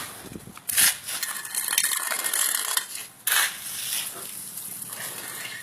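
Hard objects clinking and scraping together, with two sharp metallic-sounding strikes, one a bit under a second in and one about three seconds in, and a run of small rattling clicks between them.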